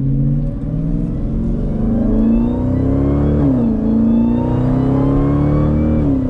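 Jeep Grand Cherokee Trackhawk's supercharged 6.2-litre V8 accelerating through the gears, its catless exhaust still muffled. Engine revs climb steadily, drop at an upshift about halfway through, then climb again to a second upshift near the end.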